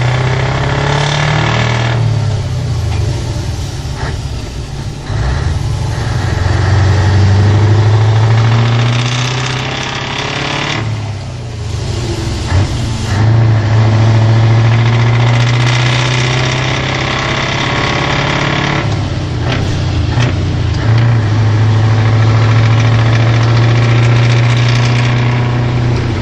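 Scania 143 truck's V8 diesel with an open, straight-through exhaust, revved up and held high about four times and falling back between, with a few sharp cracks from the exhaust as the revs drop.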